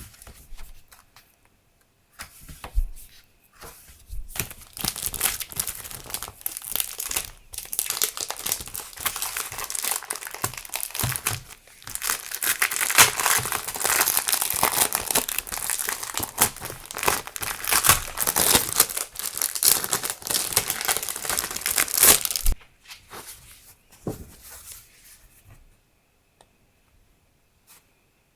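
Stationery packaging crinkling and rustling as it is handled and opened by hand. It starts as scattered light ticks, builds into a long dense crinkle that is loudest in the second half, and stops abruptly a few seconds before the end, leaving a few faint taps.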